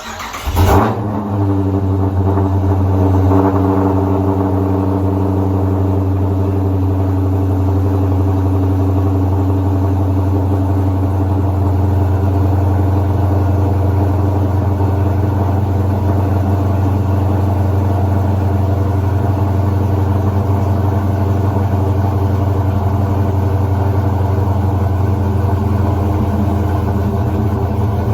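Dodge Challenger R/T's 5.7 Hemi V8 starting from cold: it fires with a brief rev surge about a second in, then settles into a steady, loud idle through the exhaust.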